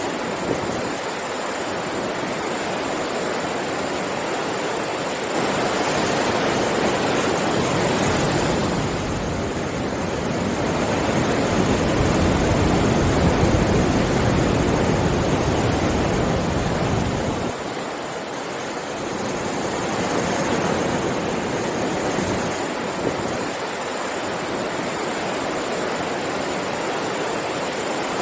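Sea waves on a shore: a continuous rush of surf that swells into a longer, louder wave from about a fifth of the way in, peaks near the middle and falls back shortly after.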